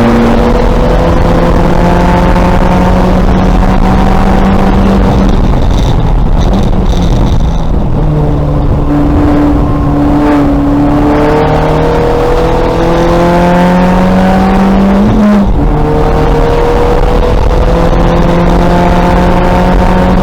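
A 2000 VW Golf race car's engine running hard under load. Its pitch climbs steadily, then drops sharply at each upshift, three times.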